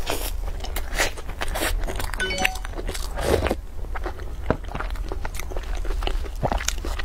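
Close-miked eating sounds: biting into and chewing a sugar-coated, cream-filled twisted bread roll, a steady run of short crunches and mouth clicks.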